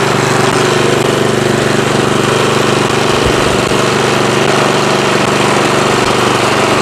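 Engine of a Craftsman 28-inch two-stage snowblower running steadily at a constant speed, the once-seized engine now running.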